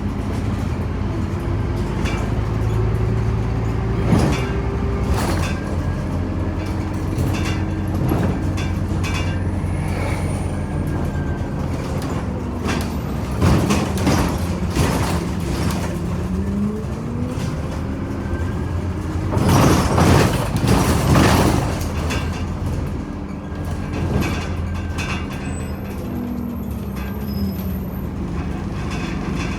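Scania OmniCity city bus running along, its engine note falling and rising in pitch as it slows and picks up speed, with frequent clicks and rattles. A louder burst of rattling noise comes about twenty seconds in.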